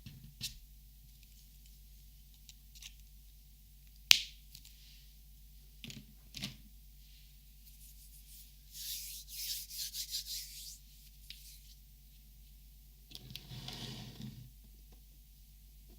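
Hands handling Copic markers: a few sharp clicks and taps, the loudest about a quarter of the way in, then a stretch of scratchy rubbing around the middle and a shorter, fuller rub near the end.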